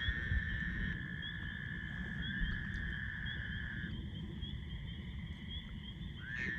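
Night chorus of frogs and insects. Long, high, steady trills that each begin with a short upward slide are heard twice, the first breaking off a little past halfway. A fast, even chirping runs above them throughout.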